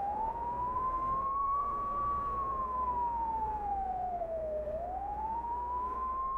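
A single wailing tone that rises fairly quickly and then falls slowly, about once every five seconds, like a siren wail, over a low steady hum.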